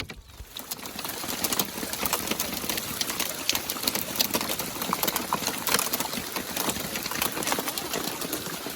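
Heavy rain and hail coming down: a dense, steady hiss full of sharp ticks of hitting stones, building up over the first second or so.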